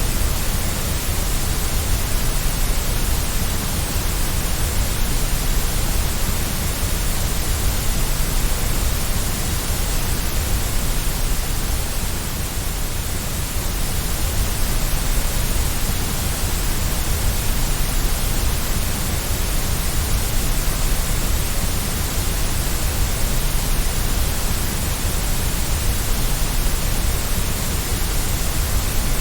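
Steady white noise: an even, unbroken hiss, played as a sleep aid to soothe a baby.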